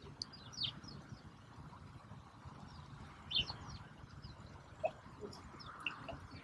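Small birds chirping: short, high, downward-sweeping chirps scattered irregularly, the loudest about three seconds in.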